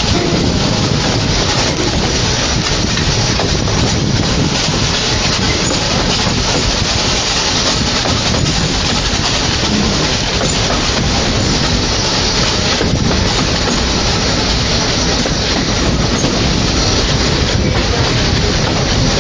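Narrow-gauge steam train running on the rails: a loud, steady rumble and rail noise.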